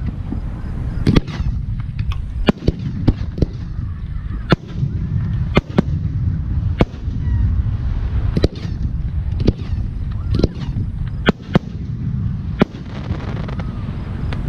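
Aerial firework shells going off in an irregular barrage, about one sharp bang a second over a steady low rumble.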